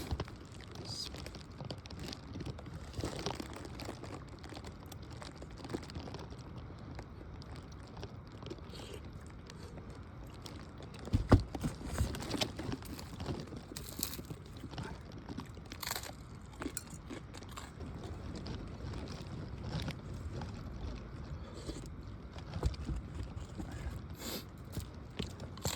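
Someone eating soup: faint chewing with scattered small clicks and knocks of a spoon and bowl, a few louder knocks about halfway through.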